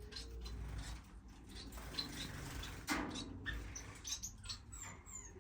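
Small finches in cages chirping faintly in short high calls, with light rustling and fluttering, and a soft knock about three seconds in.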